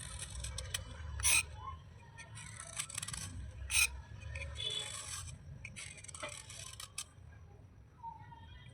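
Wet slate items being scraped and rubbed in short strokes, with two sharp snaps, one a little over a second in and one near the four-second mark.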